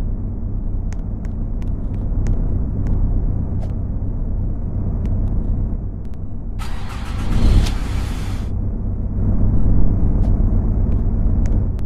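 Toyota engine running steadily with a low rumble. A hiss lasting about two seconds comes in just past the middle, along with a few light ticks.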